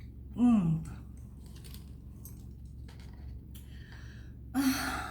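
A woman eating very spicy ramen makes a short vocal sound that falls in pitch about half a second in, and a breathy vocal exhale near the end, with quiet chewing clicks in between.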